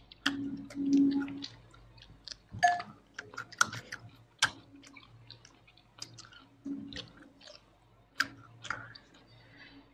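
Close-miked eating sounds: wet chewing with irregular sharp mouth clicks and smacks.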